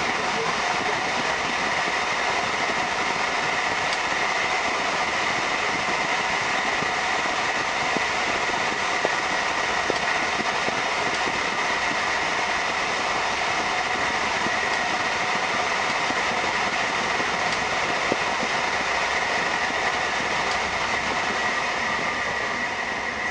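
Steady running noise heard inside a moving passenger train carriage: wheels on the rails and the train's drive, with a steady high whine on top and a few faint clicks.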